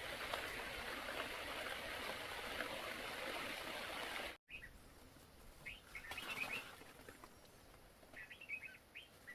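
A steady rushing, hissing noise for about four seconds, then a cut to a quieter background where small birds chirp in short bursts, a few at a time.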